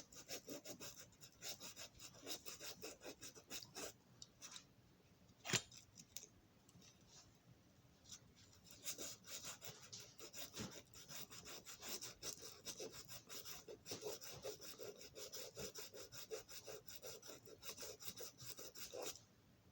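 A small piece of sandpaper scrubbing back and forth on a Marx toy locomotive's metal wheels, cleaning the rims and treads, in quick short strokes. The strokes thin out for a few seconds about a third of the way in, with one sharp click about five and a half seconds in.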